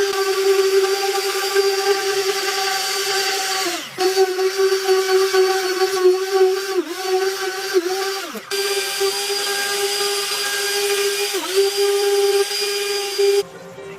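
A small high-speed electric tool, such as a rotary tool or mini drill, runs at a steady pitch. Its speed sags briefly about four times as it bears on the work, and it switches off near the end.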